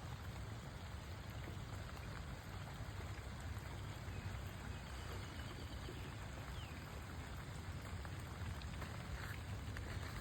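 Steady, even hiss of water, rain-like in character, in flooded surroundings.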